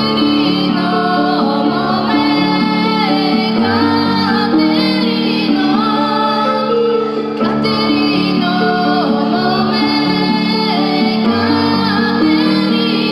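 Bulgarian folk song: a girl's singing voice over an instrumental backing with a steady bass line.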